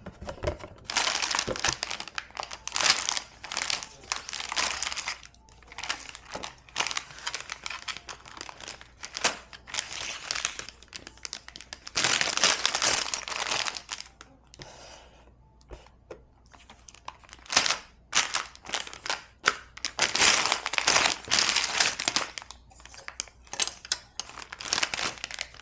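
Plastic packaging of a LEGO set crinkling and rustling as it is handled, in irregular bursts of a second or two with small clicks in between.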